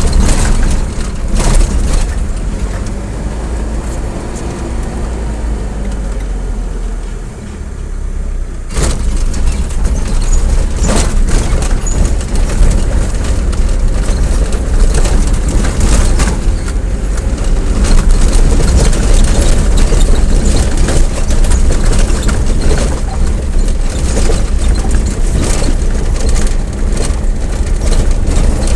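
A moving road vehicle's engine and road noise, loud and steady, with wind buffeting the microphone. It eases off for a few seconds, drops lowest about seven seconds in, then comes back suddenly louder.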